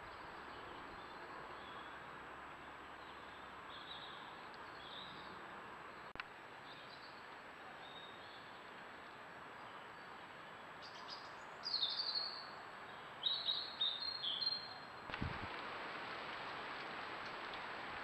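Wild birds chirping and calling: faint short high notes in the first few seconds, then louder calls in two bouts a little after halfway, over a steady hiss.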